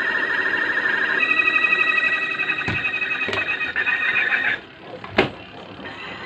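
Twin-tub washing machine's spin-dryer running under test after its capacitor was replaced, giving a high warbling squeal that steps up in pitch about a second in and cuts off about four and a half seconds in. A few clicks and one sharp knock follow, then a lower, steady running sound.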